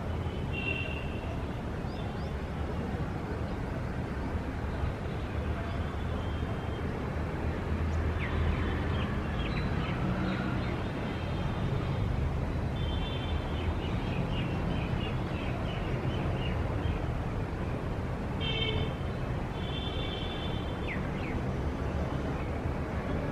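City ambience: a steady low rumble of traffic, with birds calling over it in short runs of high chirps every few seconds.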